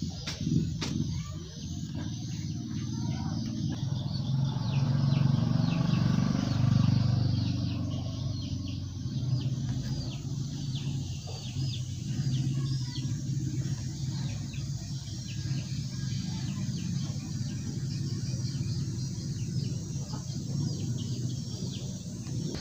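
Small birds chirping in a steady chorus of short, repeated calls, over a low rumble that swells about four to eight seconds in and then settles.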